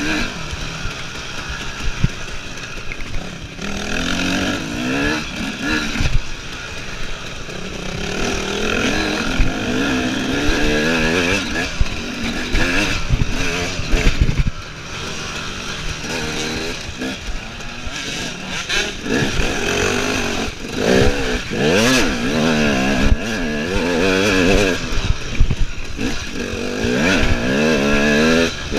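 KTM EXC enduro motorcycle engine revving up and down over and over as the rider opens and shuts the throttle and works through the gears off-road, with occasional sharp thumps from the bike over rough ground.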